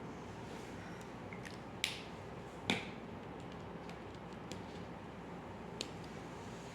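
A few sharp clicks over a steady low hiss: one near two seconds in, a louder one shortly after, and a third near the end, with fainter ticks between.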